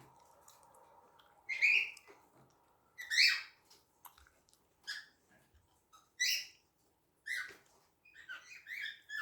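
Cockatiels calling: short, harsh chirps about every second or two, with a quicker run of chirps near the end.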